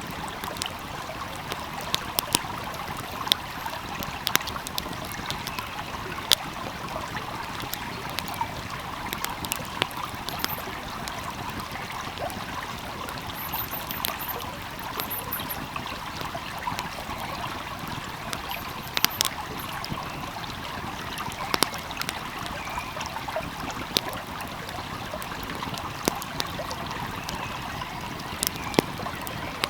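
Steady rushing of a flowing stream, with a wood fire crackling over it: sharp pops at irregular intervals, a few louder than the rest.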